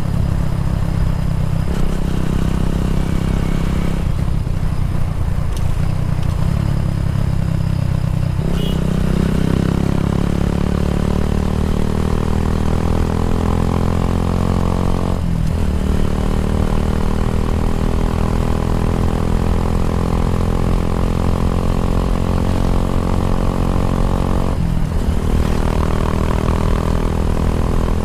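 Kawasaki W175's single-cylinder four-stroke engine running through an aftermarket racing exhaust. The engine speed climbs about a third of the way in, and there are two brief breaks later on.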